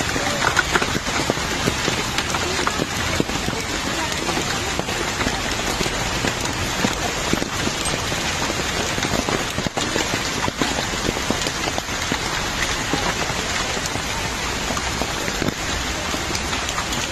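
Steady rain falling, an even hiss dotted with many small drop ticks throughout.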